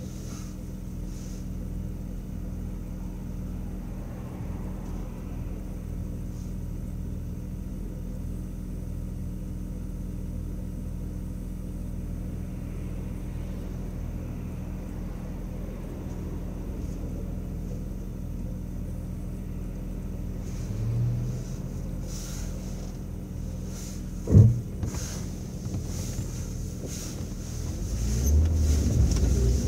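1997 BMW M3's inline-six engine running steadily under way, heard inside the cabin with road noise, with one sharp knock about 24 seconds in. Near the end the engine gets louder as the car accelerates.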